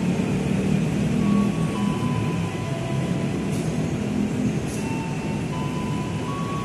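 Steady low rumble of a train at a railway station, with faint, thin wheel squeals that come and go.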